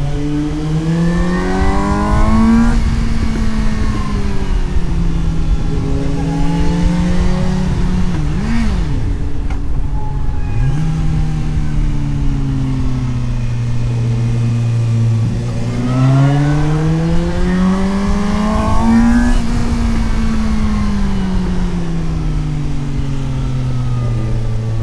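Suzuki GSX-S750 inline-four motorcycle engine heard from on board, rising and falling in pitch as the rider accelerates and rolls off through the bends, with wind rush underneath. About eight seconds in there is a short, quick rev, then the engine pulls up again and climbs once more before easing back near the end.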